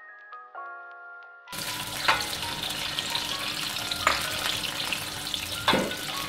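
A brief snatch of music, then ground dried-chilli paste sizzling as it fries in hot oil in a wok, stirred with a wooden spatula that knocks against the pan three times.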